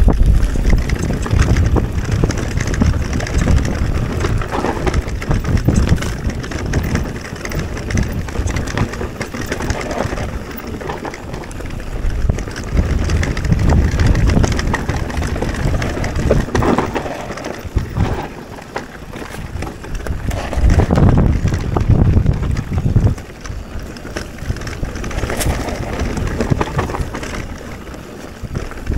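Mountain bike, a Mondraker Crafty R e-MTB, riding a rough trail: tyres crunching and the bike rattling over rocks, with wind rumbling on the action-camera microphone. The loudness swells and drops as the ride goes on.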